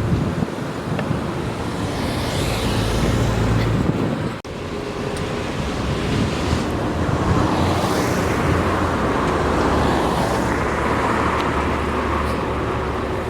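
Road traffic passing, vehicles swelling and fading one after another over a continuous rumble, with a brief sharp dropout about four seconds in.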